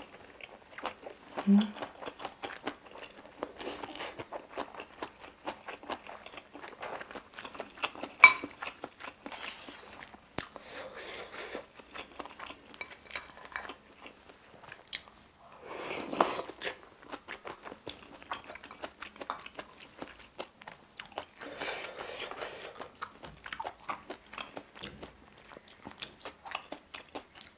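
Close-miked chewing and wet mouth sounds of a person eating spicy stir-fried octopus with chewy bunmoja glass noodles and rice, full of small smacks and clicks. A single sharp click about eight seconds in is the loudest sound, and there are short louder noisy stretches around the middle.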